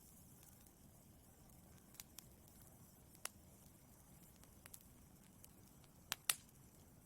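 Wood fire in a fireplace burning quietly, with a soft steady hiss and scattered sharp pops and crackles, the loudest two close together near the end.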